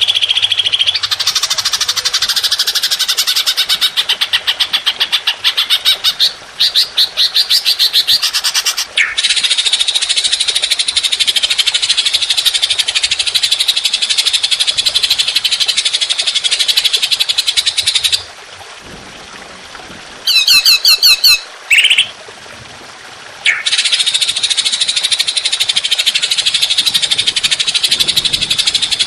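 Songbird song for bird training: long, fast, harsh trills running almost without pause. About two-thirds of the way through it drops away twice, broken by short runs of quick repeated notes, then the harsh trilling picks up again to the end.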